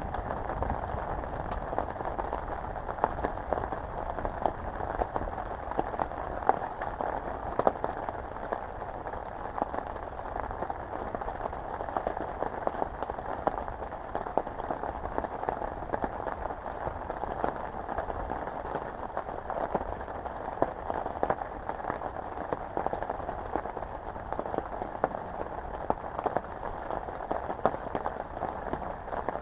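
Steady rain falling, with a dense, irregular scatter of sharp ticks from individual drops striking close by.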